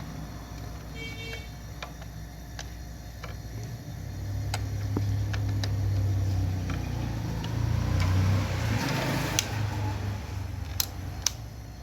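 Refrigerator compressor running with a low steady hum that swells louder for several seconds in the middle, with a few sharp clicks and taps over it.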